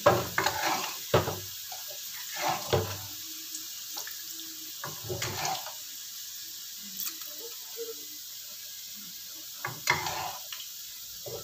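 Cubes of steamed potato frying in shallow oil in a wok over a lowered flame, a steady sizzling hiss. Several sharp scrapes and knocks of a metal spatula against the pan, the loudest near the start, one around a second in, then a few more spread through.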